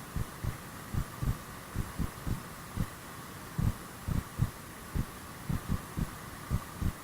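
Repeated dull low thumps, about two or three a second and often in pairs, over a steady hiss of rushing mountain-stream water.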